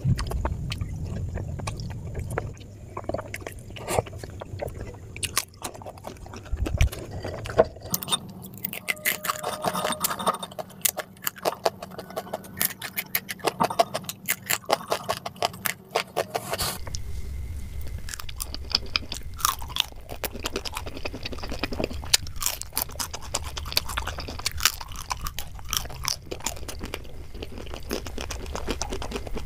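A person chewing and crunching sweets and fried snacks, with many small sharp mouth clicks.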